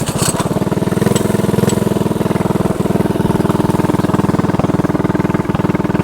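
Mini bike's Predator 212 single-cylinder four-stroke engine, just started and idling steadily with an even, rapid beat.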